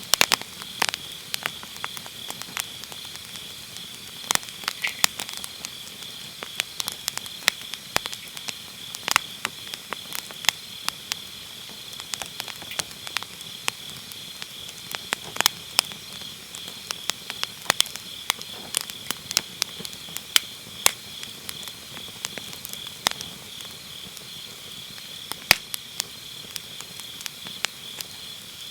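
Firewood burning in a fire pit, crackling and popping with many sharp, irregular snaps. Under it, a steady high chirring of autumn grass insects.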